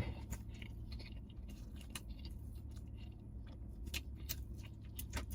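A person chewing a bite of burger close to the microphone: soft, scattered wet clicks over a steady low hum.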